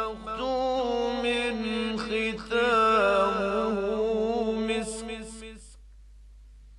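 A male reciter chanting the Quran in the melodic tajweed style, drawing out long, ornamented, wavering notes. The voice stops about five and a half seconds in, at the end of the phrase.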